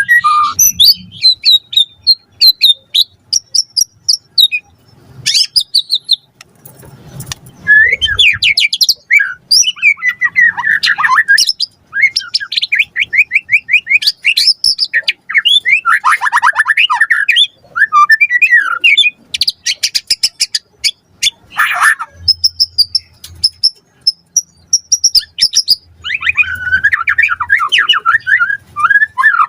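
White-rumped shama (murai batu) singing a long, varied song of fast trills, whistled phrases and chattering notes, with brief pauses between phrases.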